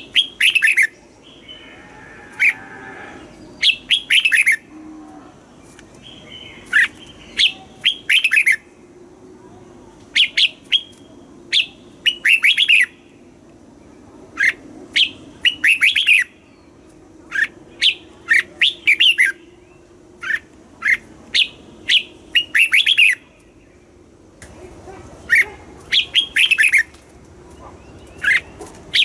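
Red-whiskered bulbul singing: short phrases of quick, sweeping whistled notes, repeated every second or two with brief pauses between.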